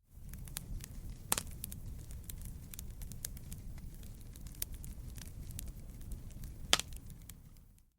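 Wood fire crackling steadily over a low rumble of flames, with many small clicks and two louder pops, about a second in and near the end. The sound fades in at the start and fades out just before the end.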